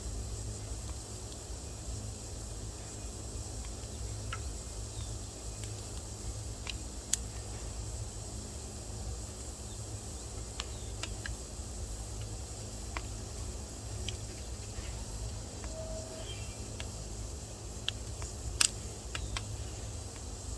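Wood fire burning in a wood stove: sparse sharp crackles and pops over a faint hiss, two louder pops about seven seconds in and near the end. A steady low rumble runs underneath.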